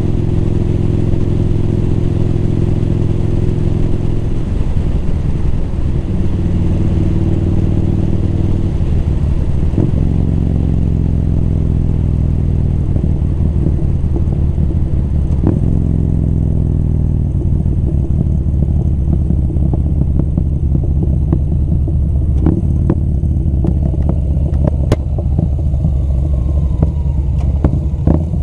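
Motorcycle engine running while riding, its note steady at first, then rising and falling as the speed changes, with a few sharp clicks near the end.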